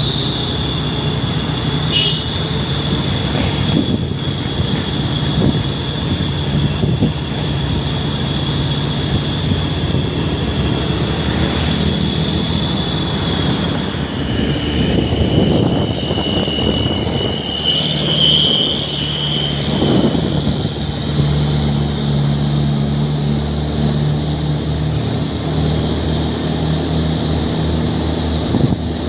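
Truck's diesel engine running steadily under load, with a high steady whine above it that drops a little in pitch about halfway through and dies away a few seconds later.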